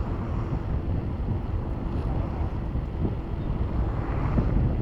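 Wind rumbling on the microphone of a moving bicycle, with road traffic noise beneath it.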